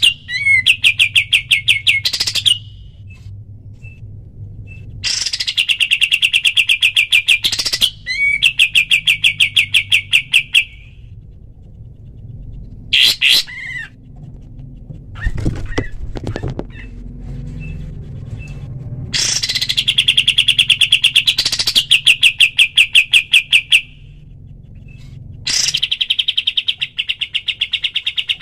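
Kapas tembak bird singing its rapid-fire song: fast, even trains of clipped chattering notes in bursts of two to five seconds, with pauses between them.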